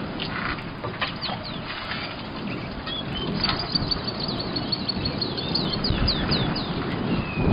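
Wild birds calling: a quick run of high chirps, then short falling whistled notes in the middle and latter part, over a steady low rustling background.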